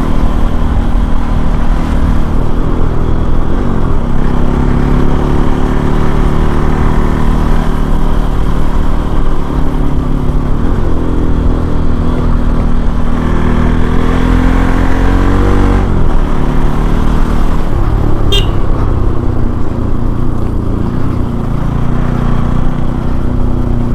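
Bajaj Pulsar NS200's single-cylinder engine accelerating on the ride, its pitch climbing and then dropping at each upshift, about three times, before settling to a lower, steadier run. There is a brief high chirp near the end.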